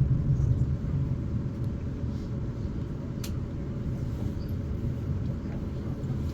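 Steady low rumble inside the passenger saloon of a Class 450 Siemens Desiro electric multiple unit as the train runs along. There is a faint steady hum above it and a single sharp click about three seconds in.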